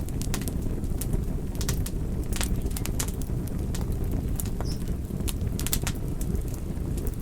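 Wood fire burning: frequent irregular sharp crackles and pops over a steady low rush of flames.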